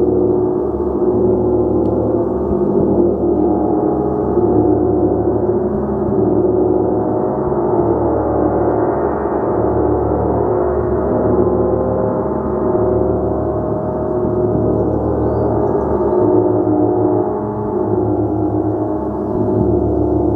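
A large gong played continuously, its many overlapping tones sustained in a dense, shimmering wash that swells and eases without a sharp single strike.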